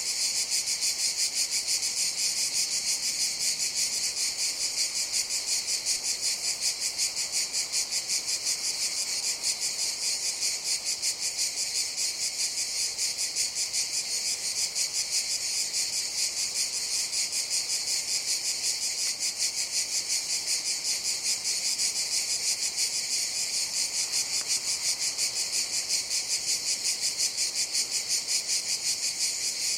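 Cicadas calling in a steady chorus: a dense, high buzz that pulses rapidly and evenly without letting up.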